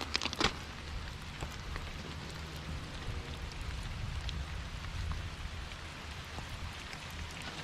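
Rain falling steadily on a gravel creek bed, a haze of pattering with many small drop ticks over a low rumble. A couple of sharp clicks come right at the start.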